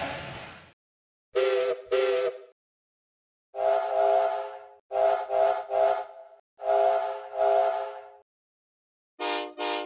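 Steam locomotive chime whistle, the whistle of Yong Bao in Thomas & Friends, sounding several notes at once in a run of toots: two short, one longer blast, three short, then two more. Near the end come two short, brighter toots from a different whistle. At the very start the previous whistle fades out.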